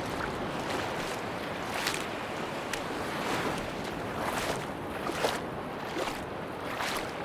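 Ocean surf washing onto a beach: a steady rush of water with many short, irregular splashy crackles.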